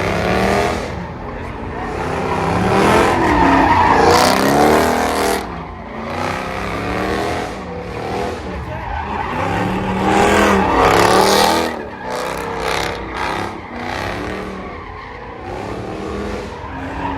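Car engine revving up and down hard while the tires squeal and skid, as a car slides in a drift or donut. It is loudest in two surges.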